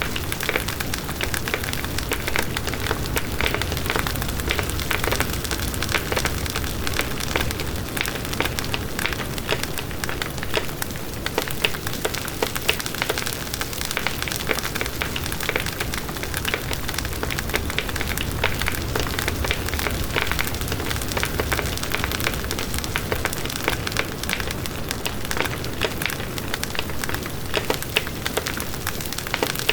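Campfire burning: many small crackles and pops of burning wood over a steady low rush of flame.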